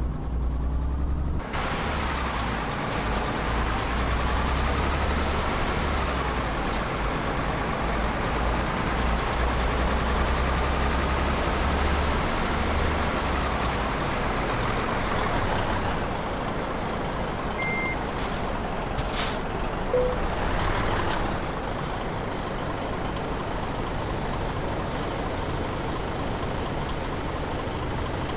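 Tanker truck's diesel engine running steadily as heard from inside the cab, with a whine that rises and falls over the first half. About two-thirds through come a single short high beep and a brief hiss of air.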